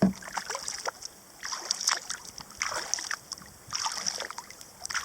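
Kayak paddle strokes: the blades dipping and pulling through the water with a splashing swish about once a second.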